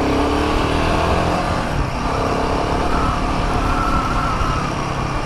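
Royal Enfield Himalayan 450's 452 cc single-cylinder engine running under way in traffic, its pitch climbing near the start and again around the middle as the rider accelerates, with road and wind noise.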